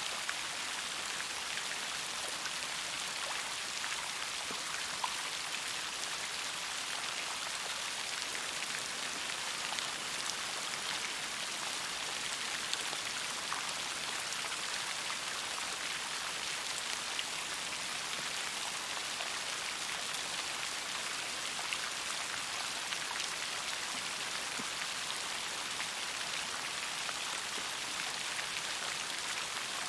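Steady rain falling, an even hiss of many drops with scattered sharper drop ticks.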